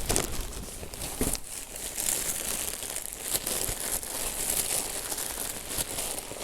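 Crinkling and rustling as a roll of insulation fleece is unwrapped and handled, with irregular small crackles.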